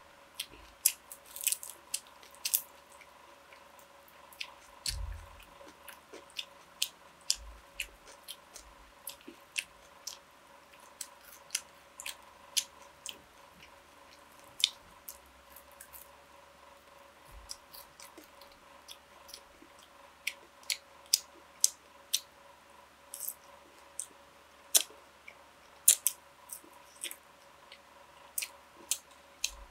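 Close-miked eating: chewing with irregular sharp wet mouth clicks and smacks, about one or two a second, over a faint steady hum.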